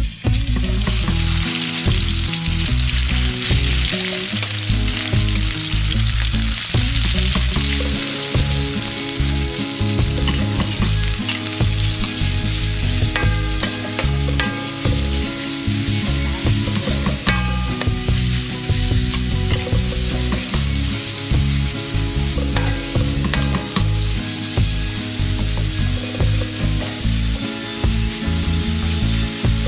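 Sliced pork and garlic sizzling in hot oil in a steel wok, stirred and scraped with a metal spatula. The spatula clicks against the pan a few times.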